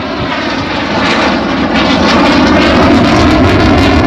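Saab 37 Viggen jet fighter's Volvo RM8 turbofan, a loud, dense roar growing steadily louder during a low-speed pass.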